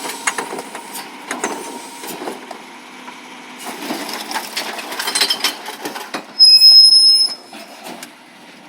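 Recycling truck at work: rattling and knocking, then a loud, high-pitched metal squeal lasting about a second near the end.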